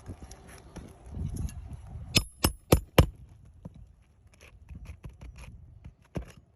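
Hand tools working on asphalt roof shingles to free their nails: four sharp metallic strikes about a quarter second apart near the middle, with lighter clicks, taps and scraping around them.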